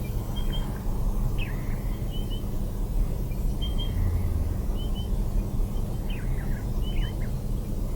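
Small birds chirping, short high chirps about once a second, over a steady low rumble of outdoor ambience.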